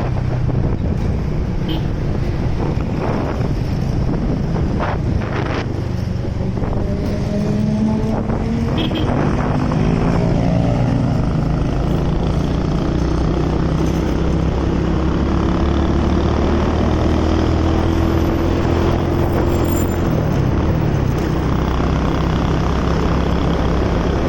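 Motorcycle engine running on the move, its pitch climbing as it speeds up about a third of the way in and shifting again past the two-thirds mark, with wind rushing over the microphone.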